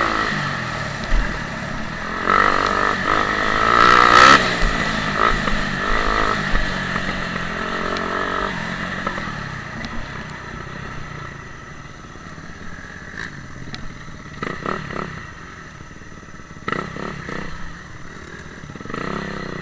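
Motocross dirt bike engines revving, their pitch rising and falling, loudest about four seconds in, then dropping back to more distant engine noise with a few short revs near the end.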